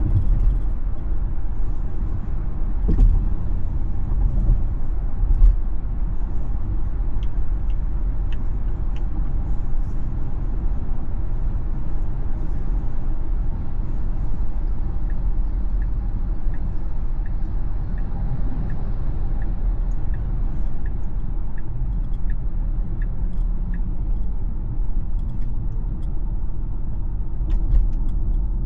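A Tesla electric car driving, its road and tyre noise a steady low rumble. There is a thump about three seconds in and another a couple of seconds later. The turn signal ticks about twice a second for a couple of seconds near the first third, and again for about nine seconds through the middle.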